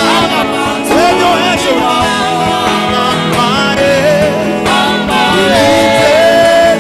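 Live gospel praise music: a voice singing a gliding melody over instrumental accompaniment.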